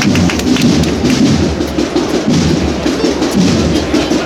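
Procession band music with drums, playing steadily and loudly.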